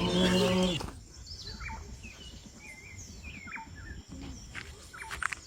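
Small birds chirping, a scattering of short high calls over a faint outdoor background.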